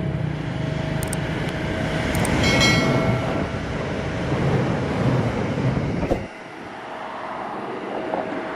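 Electric commuter train passing close by, a dense rumble of wheels on track that drops away suddenly about six seconds in, leaving a lighter hiss. A few sharp clicks and a brief ringing tone come about two and a half seconds in.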